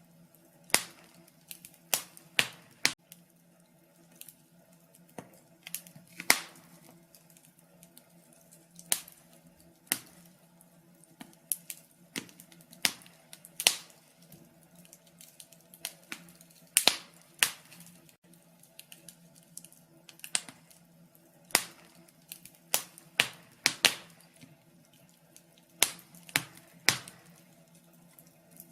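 Wood fire crackling, with irregular sharp pops and snaps, roughly one or two a second and some much louder than others, over a faint steady low hum.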